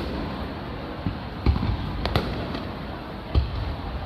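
Aerial firework shells bursting, with three louder booms about a second and a half, two, and three and a half seconds in, and fainter pops between them over a steady background noise.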